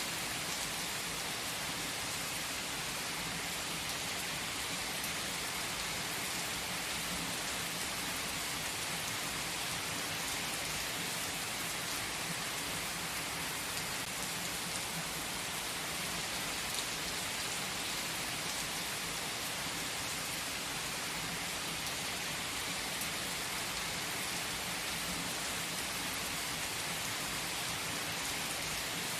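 Steady rain falling: an even, unbroken hiss that keeps the same level throughout.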